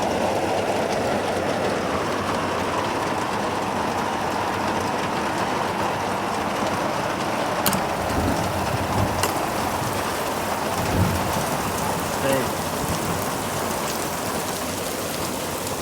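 Hard, steady rain pouring down and drumming on surfaces, with a couple of sharp clicks about halfway through.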